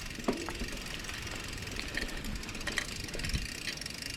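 Mountain bike being ridden on a dirt trail: a steady low rumble with scattered clicks and rattles from the bike.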